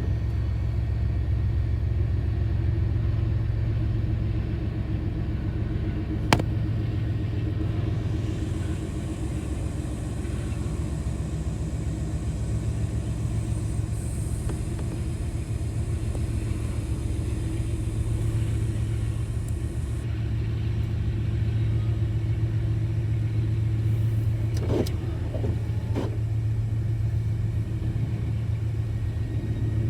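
Steady low rumble of a running motor vehicle, with a single sharp click about six seconds in.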